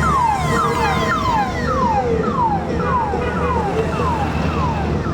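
Electronic siren sounding a repeated falling whoop, each sweep dropping in pitch about every 0.6 seconds. A steady low rumble of passing motorcycle engines runs underneath.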